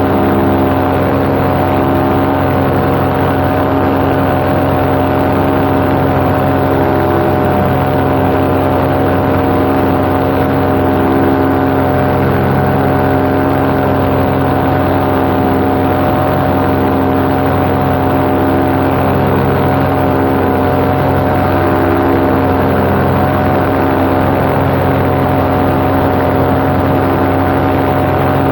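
Paramotor engine and propeller running at a steady cruise throttle: a constant drone with a faint, slow swell every few seconds.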